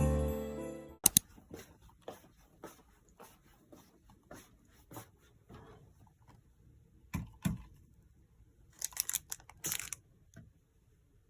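Small objects and packaging handled at close range: scattered clicks, taps and rustling, with a sharp knock about a second in and a quick run of sharp clicks near the end. Background music fades out at the start.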